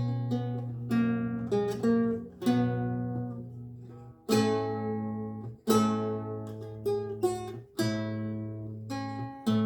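Renaissance lute with gut strings played slowly: plucked chords and single notes ringing out over a held bass, with a new chord struck about every one and a half to two seconds.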